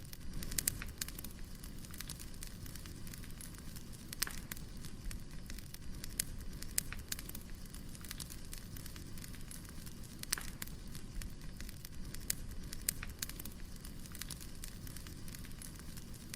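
Firewood burning: a steady low rush of flames with sharp crackles and pops at irregular intervals.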